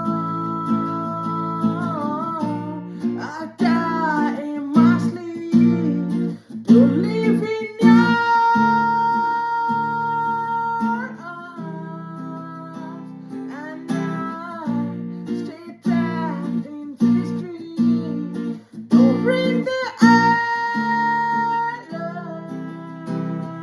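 Acoustic guitar strummed in a steady pattern, with a voice singing long held notes that bend at their ends.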